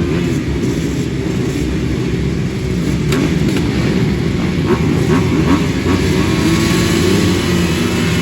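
Several motocross dirt bike engines revving, their pitch rising and falling as they race.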